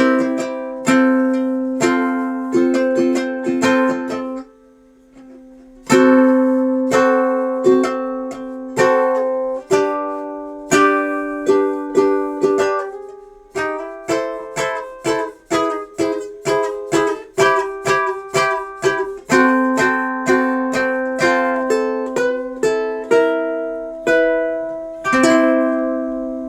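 Donner electro-acoustic concert ukulele played plugged in through an amplifier: strummed chords, a brief pause about four seconds in, then a quicker run of picked notes in the middle, and strumming again. It ends on a chord left ringing. This is a test of the ukulele's pickup, which is working.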